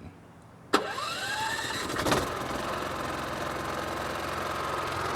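Champion 4500-watt inverter generator's 212cc engine starting at the push of a button: it catches abruptly under a second in, its pitch rising as it comes up to speed, then settles into a steady, quiet run.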